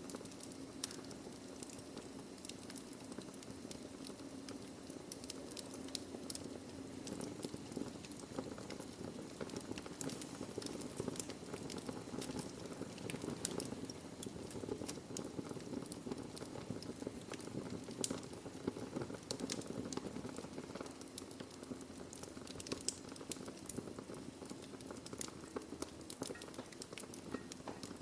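Wood fire burning in a fireplace: a steady low rush of flame with many small, irregular crackles and pops from the burning logs.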